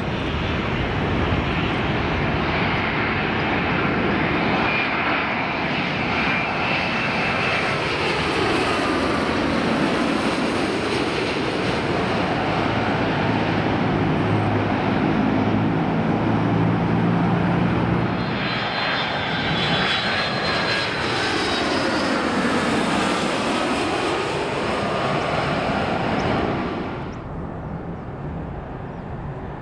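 Jet airliners passing low overhead, one after the other: a loud, steady engine rush with a whining tone that sweeps down and back up as each aircraft goes by. The sound drops off abruptly near the end.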